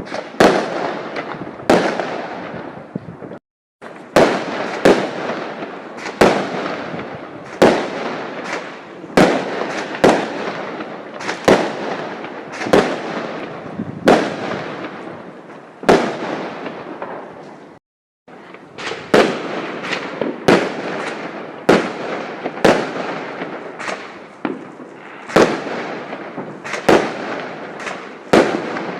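Fireworks exploding, a sharp bang about every second and a half, each followed by a long echoing tail. The sound cuts out briefly twice.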